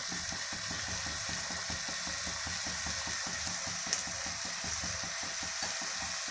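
Mixed vegetables frying in oil in a deep nonstick pot, a steady sizzle with fine rapid crackling. One brief click about four seconds in.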